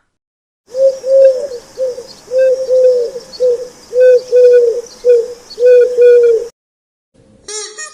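A pigeon cooing: a run of low coos, mostly in pairs, repeated every second or so over a faint steady hiss, stopping a second before the end.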